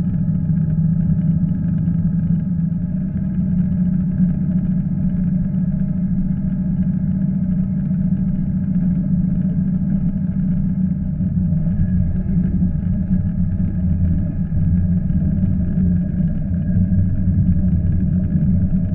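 Diesel passenger train running at speed, heard from inside the carriage: a steady low rumble with a faint steady whine above it.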